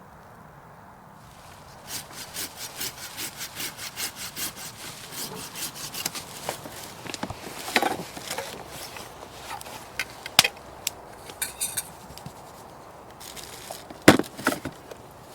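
Hand saw cutting through wood in quick, even strokes, about three a second, then a few sharp cracks of wood.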